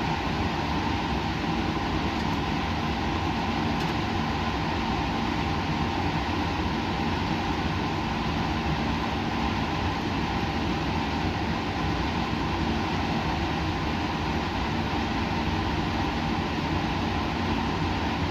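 Steady, unchanging machine hum and rushing air of running lab equipment or ventilation, with a few faint constant tones in it.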